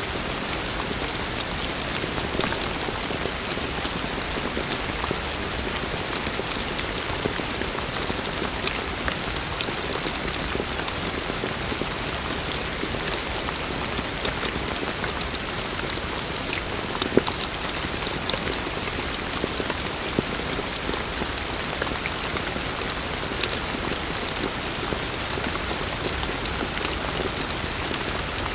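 Heavy rain falling steadily, a dense even hiss with the sharp taps of individual drops hitting the surface scattered through it, a few louder ones about two-thirds of the way in.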